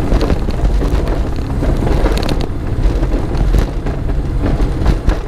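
Europa light aircraft's piston engine and propeller running at low power, heard from inside the cockpit as a steady, loud low drone with a few faint ticks.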